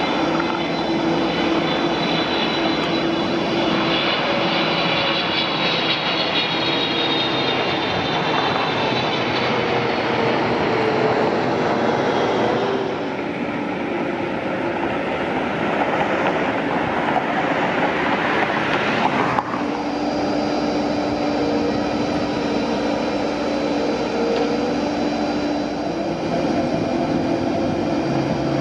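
Aircraft engine noise from a plane passing overhead: a steady rushing sound with a faint high whine that slowly falls in pitch. The sound changes abruptly about two-thirds of the way through.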